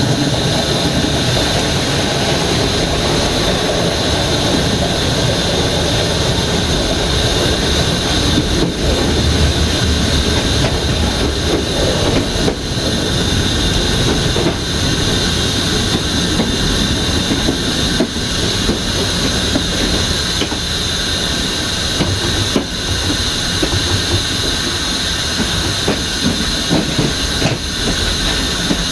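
Passenger train rolling along the track, heard from its last coach: a steady rumble and rush of wheels on rails, broken by a few sharp clicks spaced several seconds apart as the wheels cross rail joints.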